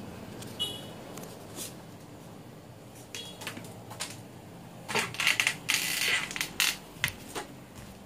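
Scattered light clicks and short clinking, clattering noises of small hard objects, loudest in a cluster about five to seven seconds in, with two very brief high chirps near the start.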